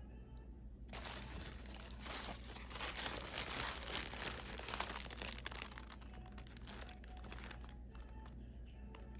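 Packing material crinkling and rustling as a package is unboxed. It starts about a second in, is busiest in the middle and eases off near the end.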